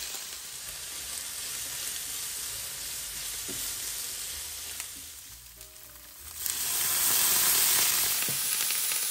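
Seitan sizzling as it is stir-fried in hot oil in a pan. The sizzle runs steadily, dies down for about a second around five seconds in, then comes back louder about six and a half seconds in.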